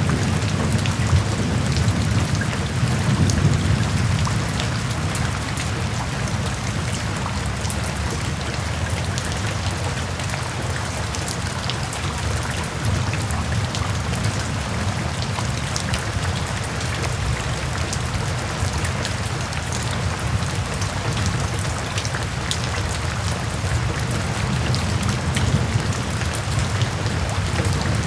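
Steady rain, a soft even shush with many individual drops ticking through it, over a low rumble of distant thunder that fades in the first few seconds and swells again near the end.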